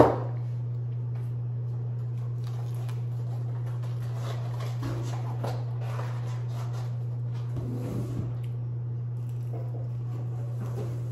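A steady low hum, with a sharp knock right at the start and faint, scattered light handling sounds after it.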